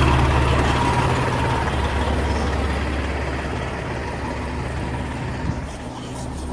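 Heavy diesel fire apparatus engine running with a low steady hum, growing fainter over the first few seconds, with a short knock near the end.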